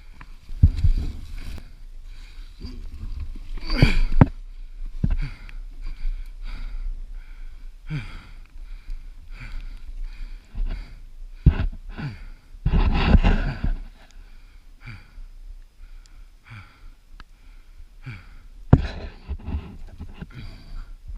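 Heavy, laboured breathing close to a helmet chin-mounted camera, mixed with irregular knocks and scuffs, with no engine running steadily.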